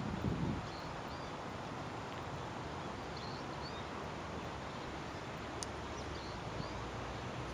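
Steady outdoor rushing noise, with a brief low buffet at the start and a few faint, high bird chirps over it.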